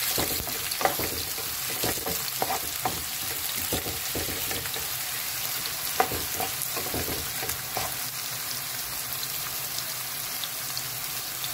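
Sliced onions and spring onions sizzling in hot oil in a non-stick frying pan with a steady hiss. Over the first several seconds a utensil stirring them knocks and scrapes against the pan now and then, after which the sizzle goes on alone.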